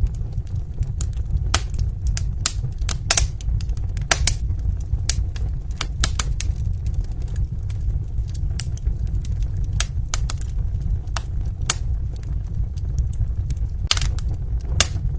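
Wood fire in a fireplace crackling: irregular sharp pops and snaps over a steady low rumble, with a thicker cluster of pops near the end.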